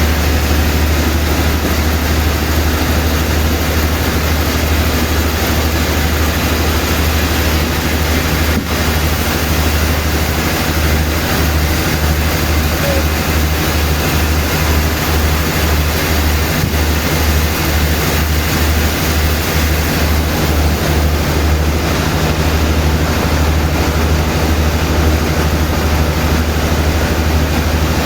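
Sawmill machinery running steadily: a loud low engine hum under a dense, even noise, the hum fluttering in quick pulses for several seconds midway.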